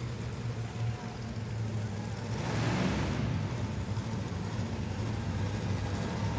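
Monster truck engine running at low revs, a steady deep rumble.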